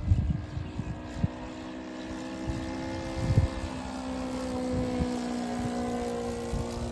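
Small engine of a remote-control model plane buzzing steadily, its pitch drifting slightly up and down as it flies, with irregular low thumps over it.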